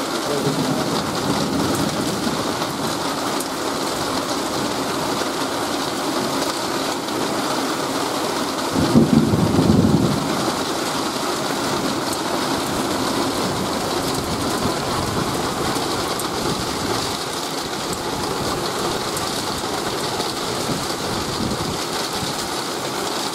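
Heavy rain pouring steadily in a thunderstorm, with a low rumble of thunder lasting about a second about nine seconds in.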